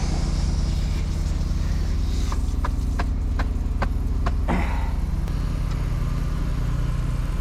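An engine idling steadily, a low continuous drone. Over the middle comes a run of short, sharp ticks, and a quick falling squeak about four and a half seconds in.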